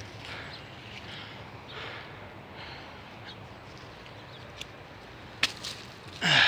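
Dry branches being handled and laid onto a pile of logs in a trench: soft rustling, a sharp snap about five seconds in, then a loud crackling clatter of wood near the end.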